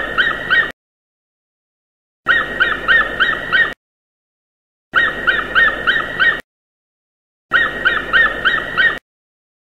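Bald eagle calling: a quick series of high, thin chirping notes lasting about a second and a half, the same call heard four times with short silences between.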